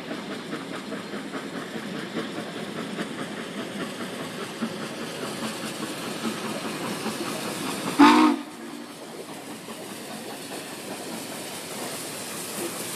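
Steam locomotive running along the track with a steady rhythmic clatter, then a short loud whistle blast about eight seconds in, followed by quieter rolling.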